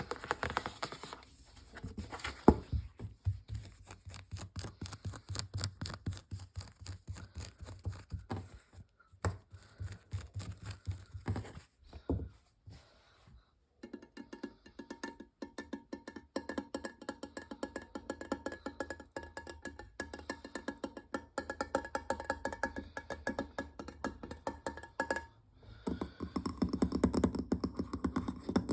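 Fast tapping on objects, many quick taps a second, with short pauses about nine seconds in and again around twelve to fourteen seconds in. Through the middle stretch a few steady tones sound along with the taps.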